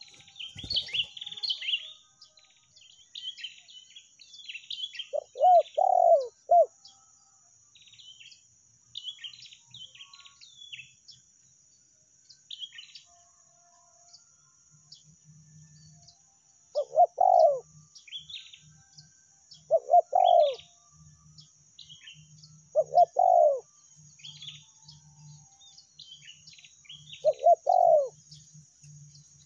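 Spotted dove (tekukur) cooing: five phrases of a few notes each, a few seconds apart. Small birds chirp throughout, and a steady high buzz runs underneath.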